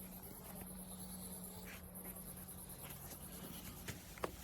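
Quiet room tone: a steady low electrical hum under faint hiss and light scratching, with a couple of small clicks near the end.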